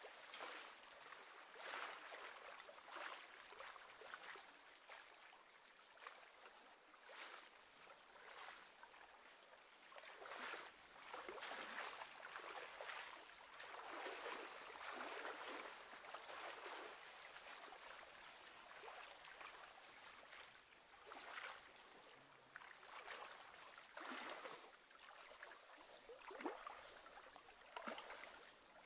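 Faint lapping and splashing of small wind-driven waves on the lake, coming in uneven swells about once a second.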